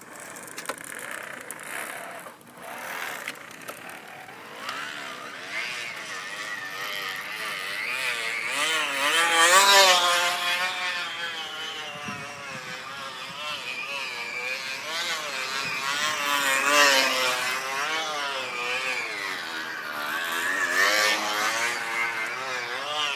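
Crushed plastic water bottle flapping against a bicycle wheel's spokes, making a motorbike-like buzz as the bike is ridden. The pitch wavers up and down with wheel speed, loudest about ten seconds in and again around seventeen seconds.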